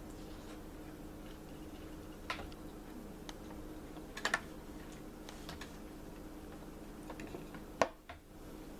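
Scattered light clicks and taps of small tools and parts being handled during circuit-board soldering work, over a steady low hum; a quick double tap comes a little past the middle and the sharpest tap near the end.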